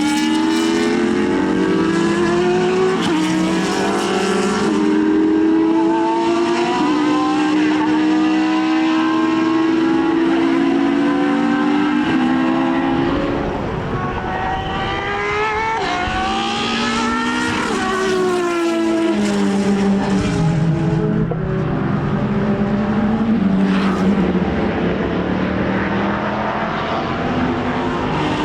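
Racing car engine running hard on track. Its note climbs in steps and drops back at each gear change, and sweeps up and then down around the middle.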